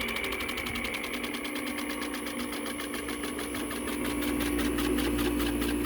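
Window air conditioner running, a steady hum with a rapid, even rattle over it, the unit vibrating hard.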